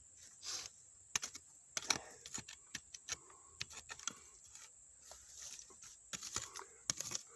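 Hand digging in stony dump soil around a buried bottle: irregular sharp clicks and short scrapes as a tool and fingers work against rocks and glass to free the bottle's neck, caught between two rocks.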